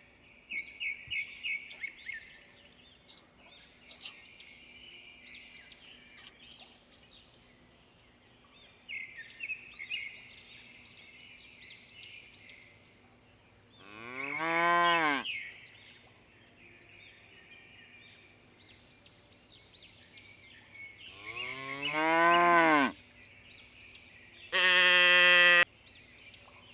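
Cattle mooing: two long moos that rise and fall in pitch, one about halfway through and one near the end, then a shorter call held at a steady pitch. Small birds chirp in the background through the first half.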